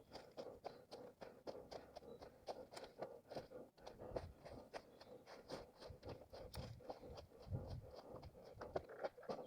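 Running footsteps on forest ground, a quick even rhythm of about three steps a second with scuffs and rustles underfoot, heard from a head-mounted camera.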